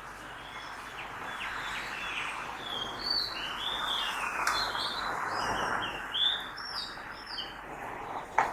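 Several birds chirping in short, high calls over the hum of city traffic, which swells for a few seconds in the middle as a vehicle passes. A sharp click near the end.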